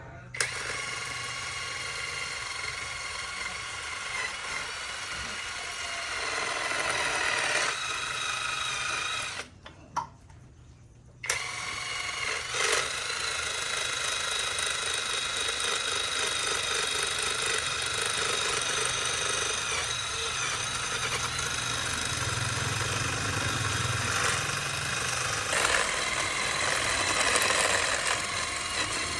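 A handheld electric power tool runs steadily with a high motor whine. It breaks off abruptly for about two seconds near the middle, then runs on.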